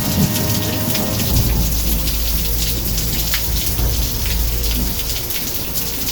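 Heavy rain driven by a hurricane, a dense patter of drops striking surfaces. A deep rumble comes in about a second in and carries on under the rain.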